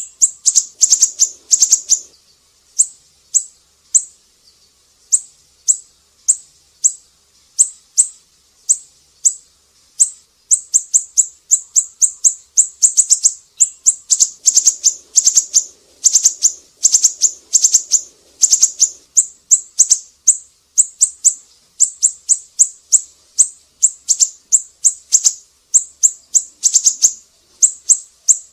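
Siri-siri songbird singing: rapid trains of short, high-pitched chirps, repeated in clusters with brief pauses between them. It is a looped masteran song track for training other songbirds.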